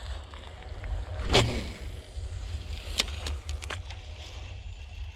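Wind rumbling steadily on the microphone, with a whoosh about a second and a half in and a few sharp clicks around the middle.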